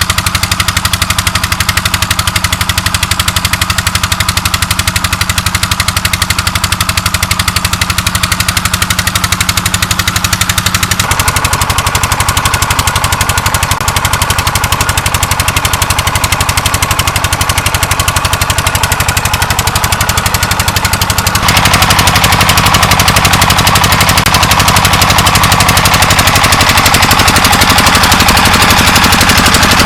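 Single-cylinder diesel engine of a tubewell pump running steadily, with a fast, even exhaust beat. The sound changes about a third of the way through and gets louder near two-thirds of the way.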